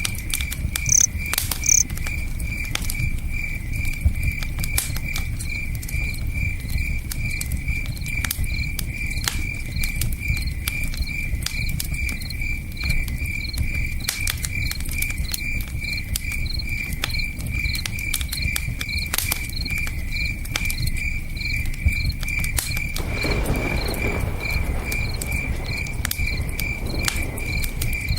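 Crickets chirping in a steady pulsing rhythm over a crackling campfire, whose wood pops in sharp irregular clicks, with a low steady rush of a river beneath. Two brief high chirps stand out about a second in.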